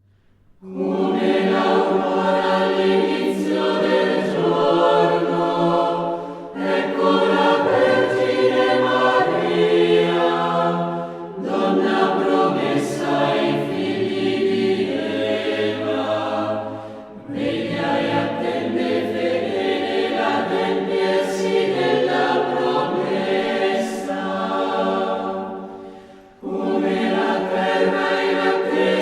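Choral music: a choir holding sustained chords in long phrases of several seconds each, with short breaks between them.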